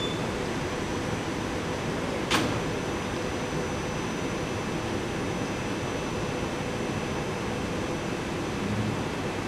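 Stopped SEPTA Silverliner IV electric railcars standing at the platform, their air-conditioning and equipment blowers giving a steady hum. A single sharp click comes about two seconds in.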